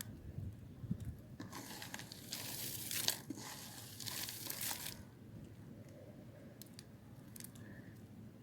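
Blade cutting through a hard, dry bar of soap: a crunchy scraping that lasts about three seconds in two strokes, then a few faint clicks.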